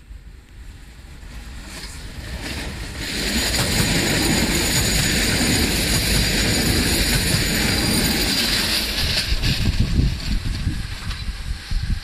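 Electric passenger train passing close by. A rushing noise of wheels and air builds over the first three seconds, holds loud and steady, then gives way to irregular low thumps in the last two seconds.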